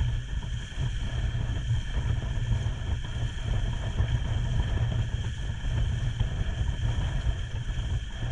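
Wind buffeting the microphone on a moving boat, a constant low rumble, with a steady engine drone underneath.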